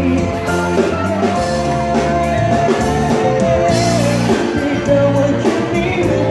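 Live pop performance: a band with bass, drums and guitar plays under a singer's held, sustained vocal lines.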